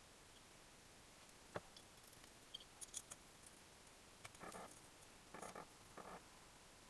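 Faint handling noises from engine assembly work: a sharp click about one and a half seconds in, a few light ticks, then three short scraping rustles in the second half.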